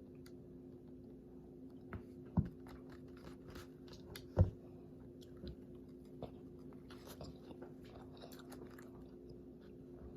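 A person chewing and biting into a crispy fried chicken sandwich, with small crunching crackles throughout. Two sharp knocks stand out, about two and a half and four and a half seconds in. A steady low hum runs underneath.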